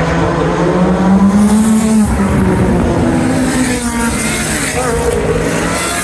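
Early-1980s Formula One racing car engines at high revs, the pitch climbing for about two seconds, then dropping and changing in steps as the cars pass and shift gear.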